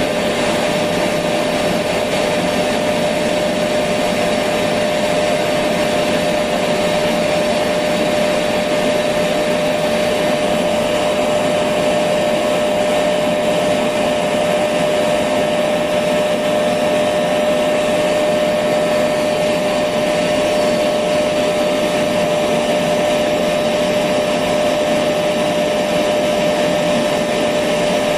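Electric vacuum cleaner running continuously at a steady pitch, a constant whine over an even rush of air.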